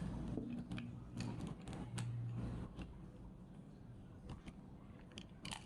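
Faint, scattered light clicks and taps of small plastic headset parts being handled and fitted together, with a low hum that stops about two and a half seconds in.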